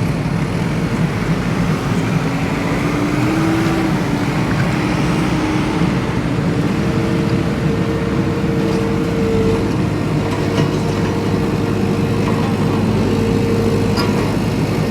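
Off-road vehicle driving, its engine running steadily under a dense rumble, with a faint whine that rises slightly a few seconds in.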